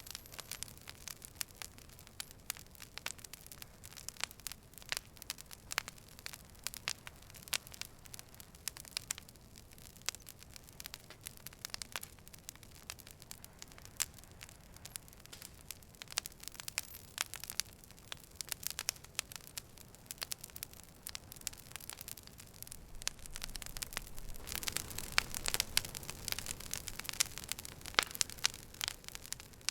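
Campfire crackling: irregular sharp pops and snaps of burning wood over a low hiss, busier and louder for a few seconds near the end.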